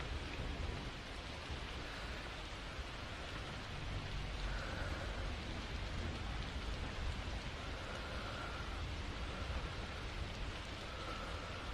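Steady rain, with a few faint soft breaths heard over it in the second half.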